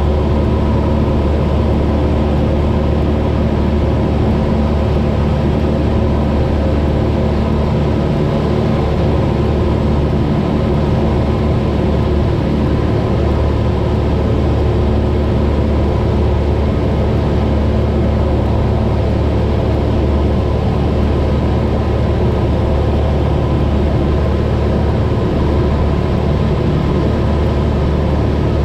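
Cessna 172's engine and propeller droning steadily in level flight, heard from inside the cabin, with no change in pitch.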